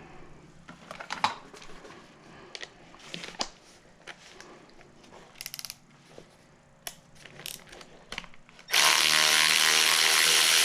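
Scattered clicks and knocks of small metal parts being handled while a mower carburetor is taken apart. About nine seconds in, a power tool with a ratchet-like clatter runs loudly and steadily for about two seconds.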